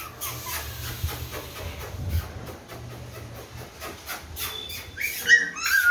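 German Spitz puppies giving short, high whimpering yelps that start near the end, after a run of scattered light clicks and scratching.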